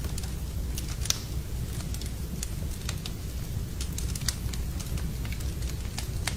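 Wood fire burning in a fireplace: scattered sharp crackles and pops over a steady low rumble of the flames, with one louder pop about a second in.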